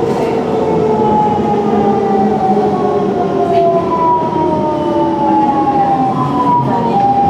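Siemens C651 train's traction inverters and motors whining, several siren-like tones slowly falling in pitch over steady running noise as the train slows.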